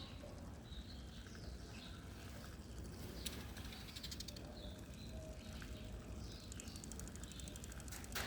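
Small birds chirping on and off over a low steady background rumble, with a sharp click about three seconds in and another near the end.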